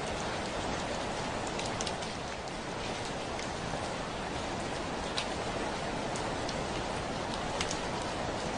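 Steady rain with scattered sharp drop ticks: rain on a window, a few drops landing louder than the rest.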